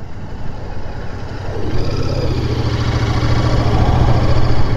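Royal Enfield Continental GT 650's 648 cc parallel-twin engine running at road speed. Its steady note grows louder from about a second and a half in.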